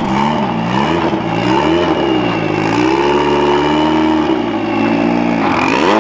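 The turbocharged 1.6-litre four-cylinder engine of a Series 1 Mazda MX5 drift car, revved in repeated throttle blips. The pitch rises and falls about five times, is held higher for about a second past the middle, and drops low just before the end.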